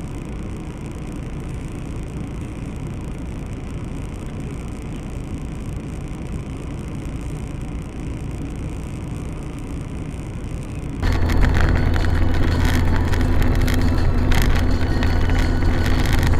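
Car engine and road noise heard from inside a moving car, a steady low rumble with hiss. About eleven seconds in it cuts abruptly to a louder, deeper steady engine drone with scattered small clicks and rattles.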